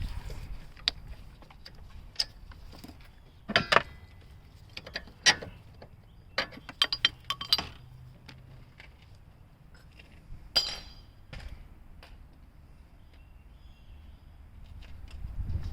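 Scattered metal clinks and clicks of hand tools, sockets and extensions being handled during engine-mount bolt removal, in short clusters with pauses between.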